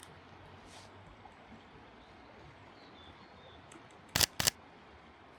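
Two camera shutter clicks about a quarter second apart, a little past four seconds in, over a faint steady hiss.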